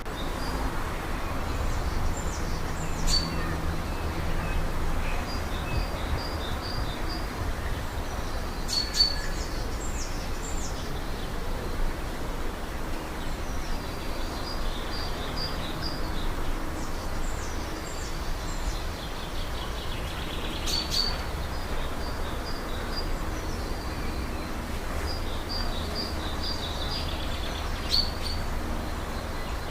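Birdsong: phrases of short, high chirps and trills repeated every several seconds, over a steady low rumble.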